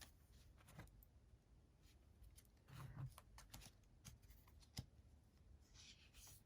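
Oracle cards being handled and drawn from a deck: faint rustling and a few soft taps, with one sharper click about two-thirds of the way in.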